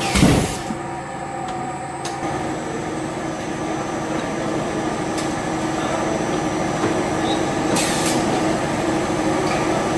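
Plastic-processing machinery running with a steady hum that holds several constant tones, with a short hiss of air near the start and another about eight seconds in.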